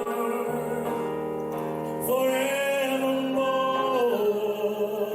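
Church worship music: sustained keyboard chords, with singers holding a long note from about two seconds in.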